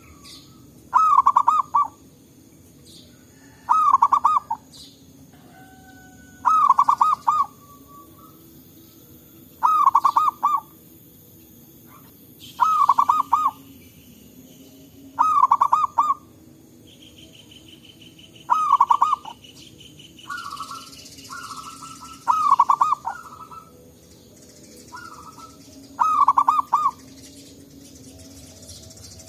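Zebra dove (perkutut) singing: its cooing song repeated about every three seconds, each phrase a quick run of short notes. Fainter dove calls answer between the phrases.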